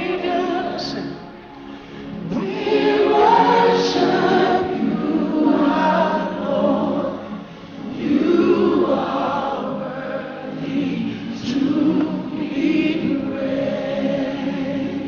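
A choir singing a gospel worship song in long phrases, with several voices together.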